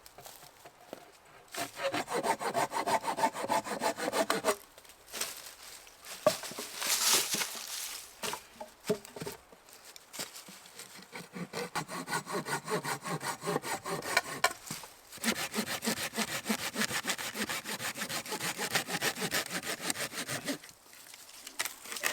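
Hand saw cutting through wood with quick, even back-and-forth strokes, in several runs separated by short pauses.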